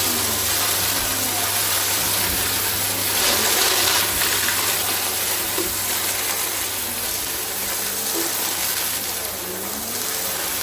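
Goodmans TurboMax vacuum cleaner running steadily, its motor humming under the rush of suction air, swelling slightly a few seconds in.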